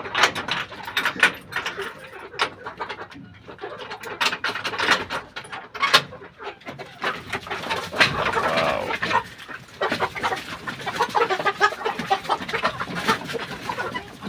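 A flock of chickens, hens close to laying age, clucking and calling, with many short sharp clicks and knocks mixed in. The calling is busiest after about eight seconds.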